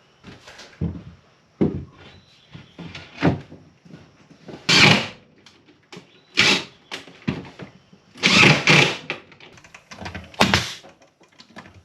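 Irregular knocks and thuds from hands-on carpentry work in a small room, with several short, loud, noisy bursts about half a second long.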